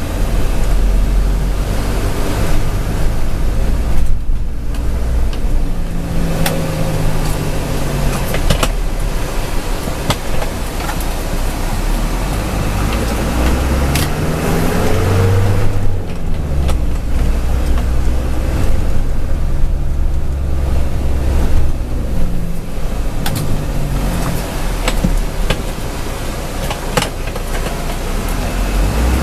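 Truck driving, with a heavy low rumble throughout. The engine note rises and falls back several times as it accelerates and eases off, with scattered sharp knocks and rattles.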